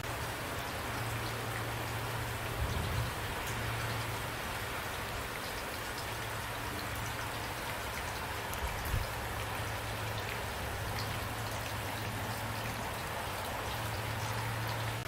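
Steady rain with individual drops ticking close by, and two brief low thumps about three and nine seconds in.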